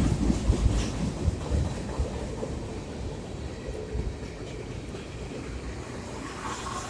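Freight train cars rolling past on the rails: a low rumble with scattered knocks of wheels over rail joints, slowly getting quieter.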